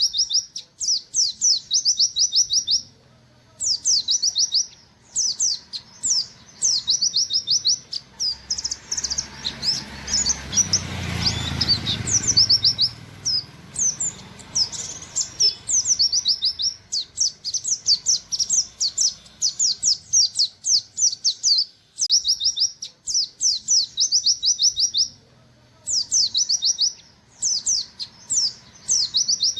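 A buxtoni white-eye (pleci) singing in rapid 'nembak' runs: fast strings of high, sharply falling 'wit wit' notes, phrase after phrase with short pauses between. Around the middle, a rushing noise swells up and fades under the song.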